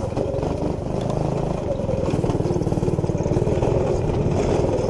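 212cc single-cylinder engine on a minibike fitted with an aftermarket exhaust, running steadily under throttle with rapid, even exhaust pulses.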